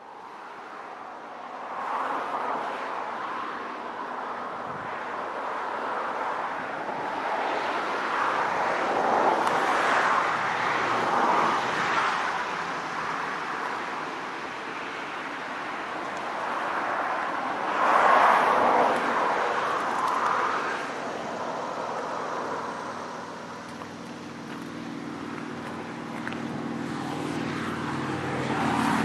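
Freight train noise: a steady rushing rumble that swells and fades, with a low diesel hum growing louder near the end.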